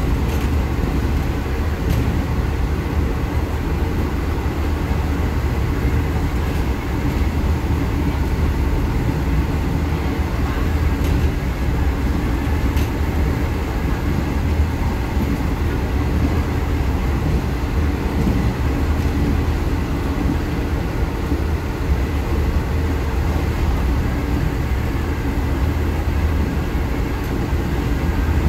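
Diesel train running steadily at speed on the track, heard from inside the car just behind the driver's cab: a continuous low rumble of wheels and running gear, with a few faint clicks.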